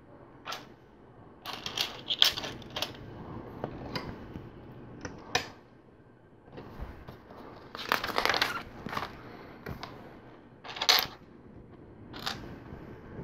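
Plastic LEGO pieces clicking and rattling as they are handled and fitted together, in scattered short clicks and rustling bursts.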